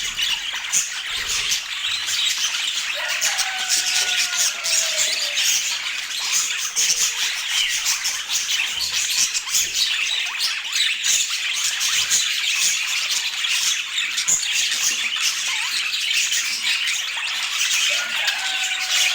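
Budgerigars calling in a continuous dense chatter, with a short falling whistle about three seconds in and again near the end.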